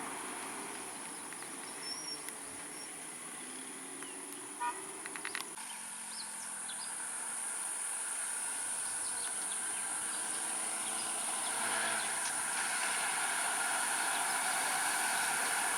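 Outdoor ambience: a steady high insect buzz, like crickets, with a vehicle engine running low underneath. A few short chirps and clicks come about five seconds in.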